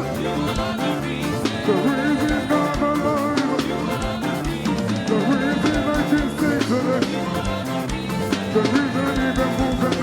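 A live praise-and-worship band playing a steady groove: drum kit with regular kick and snare hits and cymbals, under bass, guitar and a wavering melodic line.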